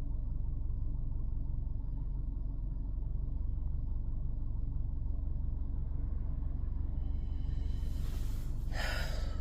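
Steady low rumble of a car's interior, with a breathy sigh near the end.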